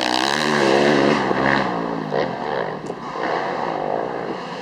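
Dirt bike engines racing, the nearest one revving up and down through the first second and a half, then a rougher, more distant mix of engines running.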